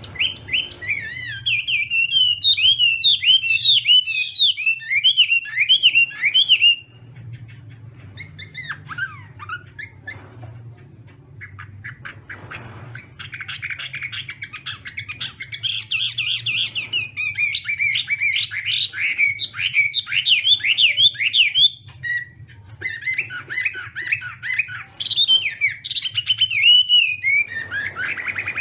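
Chinese hwamei singing long bouts of fast, varied whistled runs, with a quieter stretch of scattered notes about seven seconds in before full song resumes. A faint low hum lies underneath.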